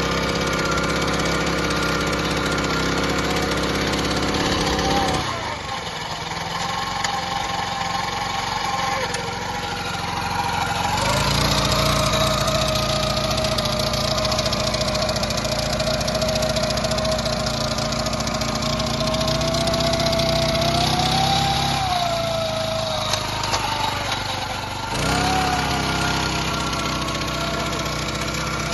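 Honda FF300 Salad tiller's small 2.4 PS petrol engine running, its speed changed several times: it drops about five seconds in, picks up and runs louder from about eleven seconds, eases off a little after twenty seconds and shifts again a few seconds later.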